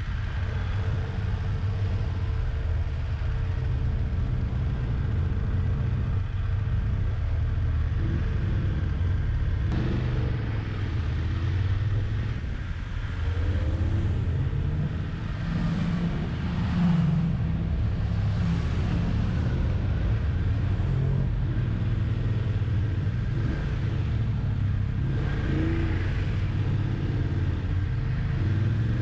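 Motorcycle engine running on the move, a steady low rumble that swells briefly a couple of times, once about halfway through and again near the end.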